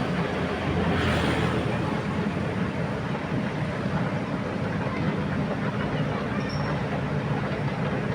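Amphibious excavator's diesel engine running steadily with a low hum, over a constant rushing noise; it swells briefly about a second in.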